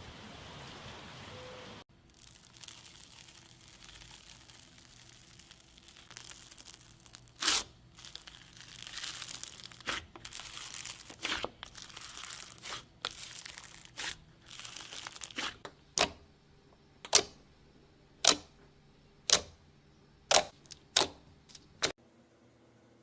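Crinkling and tearing, followed near the end by a run of about seven sharp, loud snaps roughly a second apart.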